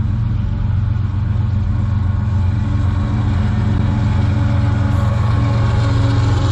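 Diesel-electric freight locomotive engines running, a steady low drone.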